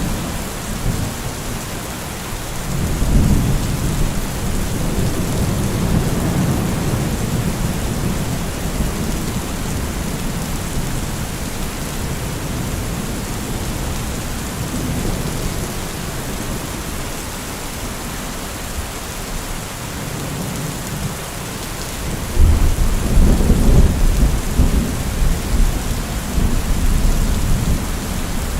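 Heavy rain falling steadily, an even hiss of rain on surfaces, with deep low rumbling swells rising about three seconds in and again, louder, near the end.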